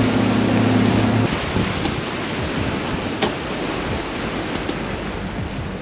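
A steady low motor hum from the fishing boat cuts off about a second in, leaving wind on the microphone and water noise, with one sharp click about three seconds in.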